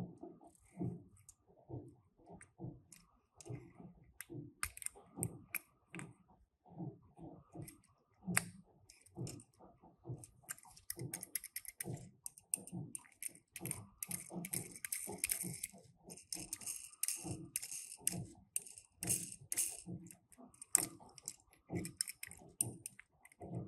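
Hands handling small die-cast toy cars and their packaging: a steady run of light clicks and taps, with denser rustling from about ten seconds in.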